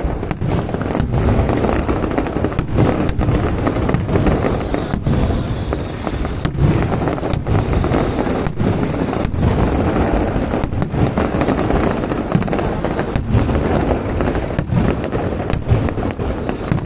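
Fireworks display in full barrage: a continuous rumble of aerial shell bursts and crackle, with sharp bangs a few times a second.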